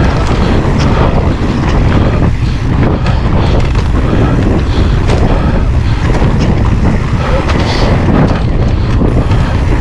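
Steady wind rumble buffeting an action-camera microphone while an e-mountain bike is ridden over a woodland trail, with frequent short clicks and rattles.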